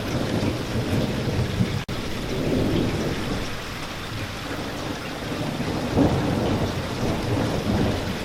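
Steady spring rain with a low rumble underneath. The sound cuts out for an instant about two seconds in and swells slightly about six seconds in.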